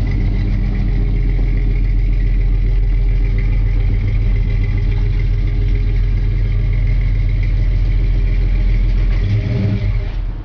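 1966 Ford Falcon's 200 cubic inch inline six, breathing through split Hooker headers, dual exhaust and Flowmaster 40 series mufflers, idling steadily with a deep exhaust note.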